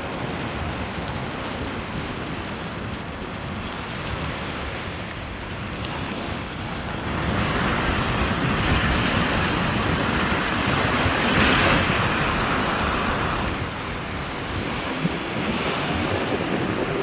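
Sea surf breaking and washing onto the beach: a steady wash that swells louder about seven seconds in as a bigger wave breaks, eases off a few seconds later, and rises again near the end. Wind buffets the microphone underneath.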